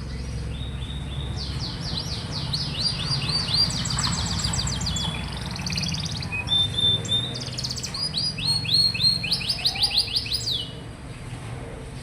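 Domestic canary singing a long song of fast rolling trills, runs of rapidly repeated notes at several pitches, which breaks off suddenly about a second before the end.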